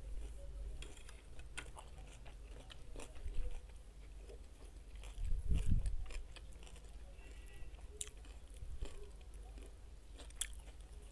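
Close-miked chewing of a mouthful of tomato and cucumber salad, with many short, sharp mouth clicks. A low thump comes about five and a half seconds in.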